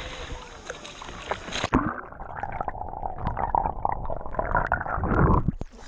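Camera plunging under the sea: a splash about two seconds in, then muffled bubbling and rushing water heard underwater, growing louder before the camera breaks the surface again near the end.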